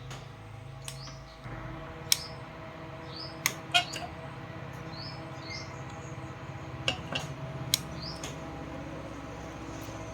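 A handful of sharp clicks and taps, the loudest two close together near the middle and two more later, over a steady low hum, with a bird's short high chirps repeating in the background.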